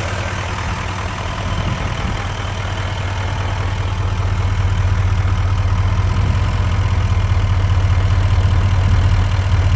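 A 3500HD heavy-duty pickup truck's engine idling steadily in the open engine bay. It sounds smooth, with a deep even hum that grows a little louder over the second half.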